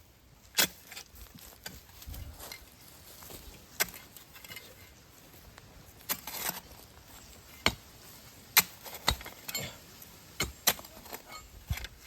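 A hand digging tool striking stony soil at irregular intervals, about ten sharp clinking and scraping hits, some ringing briefly where metal meets stone.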